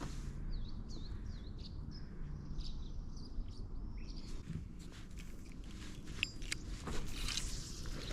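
Small birds chirping in short swooping notes through the first few seconds, over a low steady rumble, followed by a few sharp clicks near the end.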